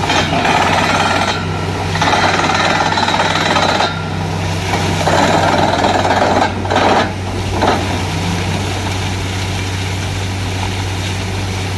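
Borewell drilling rig running steadily with a low engine hum. Over it come several bursts of harsh hammering noise, each one to two seconds long, the last few short, which stop about eight seconds in.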